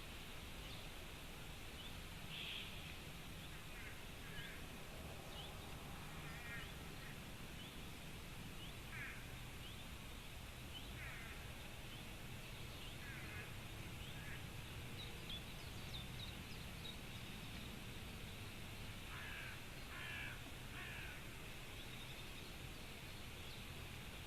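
Faint short, high bird calls scattered through, some in quick clusters of two or three notes, over a steady low rumble.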